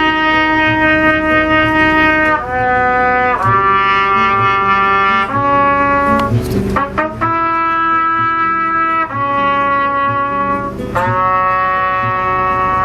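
Instrumental song intro: held brass-like chords changing every second or two, with a few drum hits.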